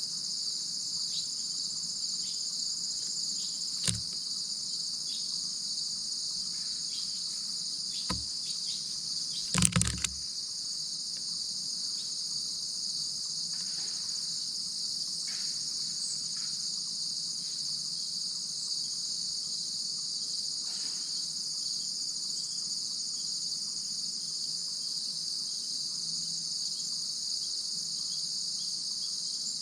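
Steady, high-pitched chorus of crickets and other insects chirring without a break. A few sharp knocks cut through it, one about four seconds in, another at eight seconds, and a louder cluster around ten seconds.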